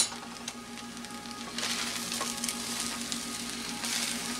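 Beef fried rice and fresh bean sprouts sizzling in a frying pan, the hiss growing louder about a second and a half in as a wooden spatula starts stirring them. A steady low hum runs underneath.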